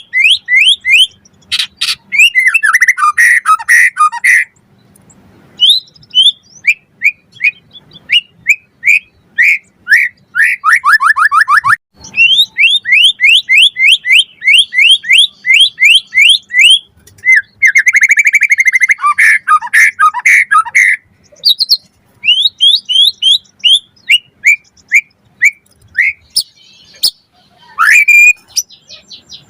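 White-rumped shama (murai batu) singing a long, varied song: runs of quick repeated whistled notes, several fast trills and short pauses between phrases.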